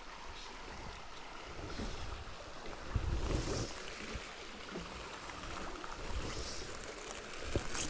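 River water running steadily, with low rumbles of wind on the microphone about three seconds in and again near the end.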